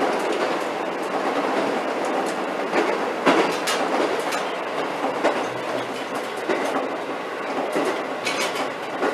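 Diesel railcar running on jointed track, heard from inside the driver's cab: a steady running noise with the wheels clacking over the rail joints every second or so.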